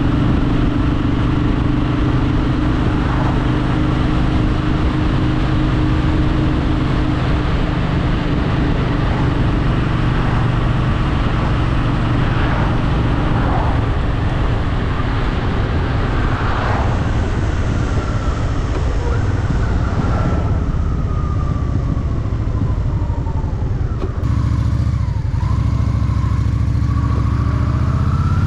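Honda Shadow VT750's V-twin engine running under way at a steady cruise, with wind rush over the microphone. In the second half the engine note falls and eases off as the bike slows, then starts to rise again near the end.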